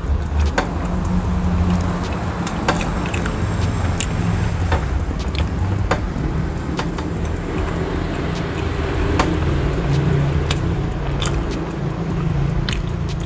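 Close-up chewing of soft layered cake, with many short wet mouth clicks and smacks scattered through, over a steady low hum.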